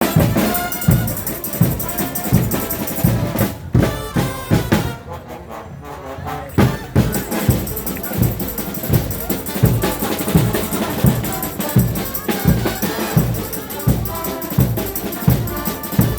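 Frevo band playing, brass over a steady drumbeat; the music drops quieter for a few seconds about four seconds in, then comes back full.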